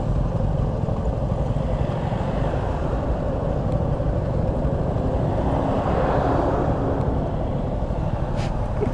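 Motorcycle on the move: wind buffeting the helmet microphone over the steady running of the engine, with a swell of road and engine noise about six seconds in.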